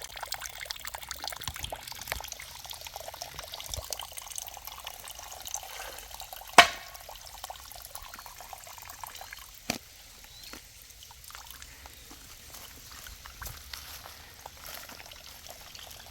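Water trickling steadily, with two sharp clicks about three seconds apart; the first is the loudest sound.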